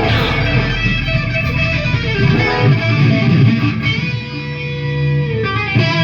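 Electric guitar playing a passage of strummed chords, each held and then changed, demonstrating a part of the song.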